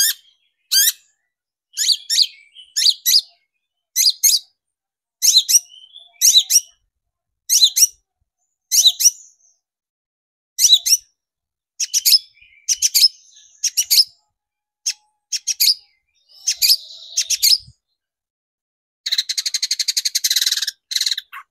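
Long-tailed shrike (cendet) calling: short, sharp, high notes repeated about once a second, then near the end a fast, dense chattering burst lasting about two seconds. This is a lure recording of a singing shrike, meant to stir other shrikes into song.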